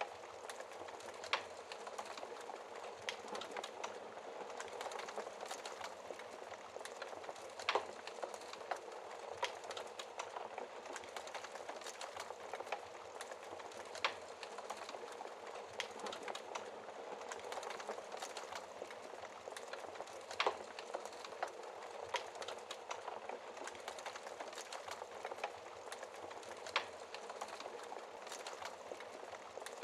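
Wood fire crackling in a fireplace: a steady soft hiss with frequent small ticks and a sharper pop every few seconds.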